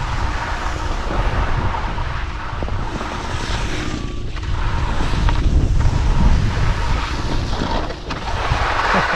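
Wind buffeting the microphone during a downhill ski run, with a low rumble and the steady hiss of skis sliding over snow.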